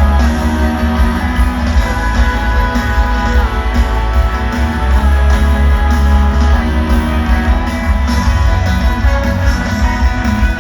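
Pop-rock band music: guitar with bass and drums, playing without vocals.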